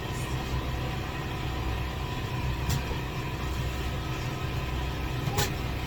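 Steady low machine hum, like an idling engine, with two short sharp clicks, one about two and a half seconds in and one near the end.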